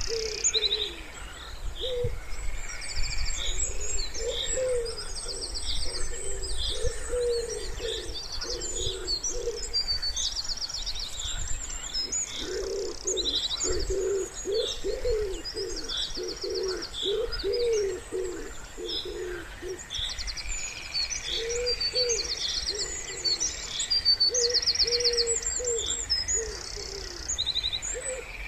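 Wood pigeons cooing in repeated low phrases, in several runs with short gaps, while small songbirds chirp and give fast high trills throughout.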